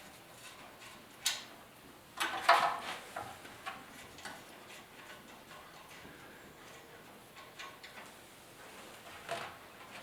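Scattered clicks and light knocks of metal parts and tools being handled during motorcycle assembly, the loudest cluster about two and a half seconds in.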